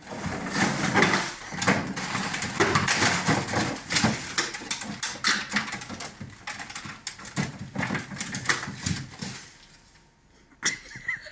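A tame fox scrabbling and rustling about on a refrigerator shelf, with many quick clicks and knocks. It dies down about nine seconds in, and one sharp knock follows near the end.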